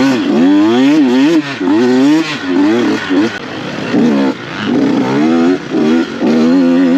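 Dirt bike engine revving up and down on a motocross track, pitch rising and falling again and again as the throttle is opened and shut, with several short drops where the throttle is chopped.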